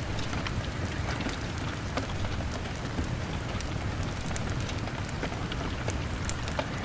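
Steady rain on a window mixed with a crackling log fire: an even hiss over a low rumble, with scattered sharp clicks and pops throughout.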